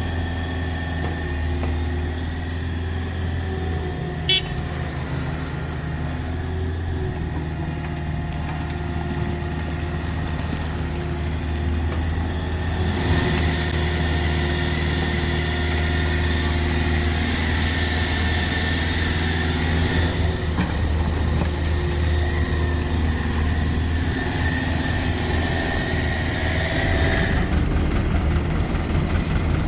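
Diesel engine of a CAT 305.5E2 mini excavator running steadily under working load, with a high whine over it. A single sharp click comes about four seconds in. About halfway through the engine grows louder and the whine swells.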